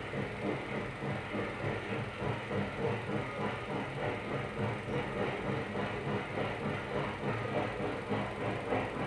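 Train running on rails: a continuous rumble that swells and dips at a regular quick pulse.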